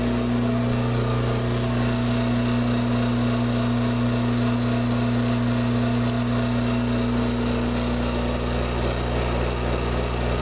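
2006 Broan bathroom exhaust fan running with a steady hum and a rattle; it rattles a lot.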